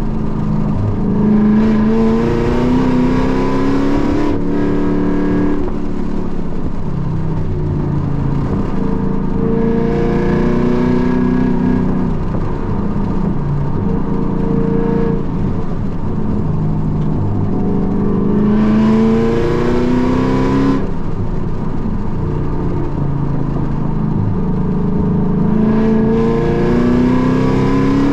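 Race-track car engine heard from inside the cabin, accelerating hard with its pitch climbing over several seconds and then dropping sharply, several times over, as the driver shifts or lifts for corners. Road and wind noise runs steadily underneath.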